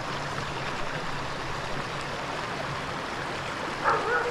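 A small mountain stream running steadily over rocks. Near the end a dog gives a short, high, rising-and-falling whine.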